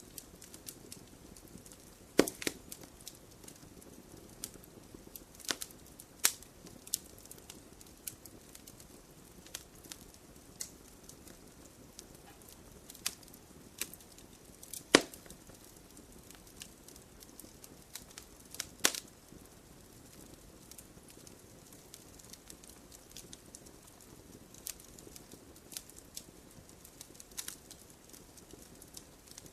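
Wood campfire burning steadily in a stone fire pit: a low hiss with irregular crackles and sharp pops, the loudest snaps about 2, 6, 15 and 19 seconds in.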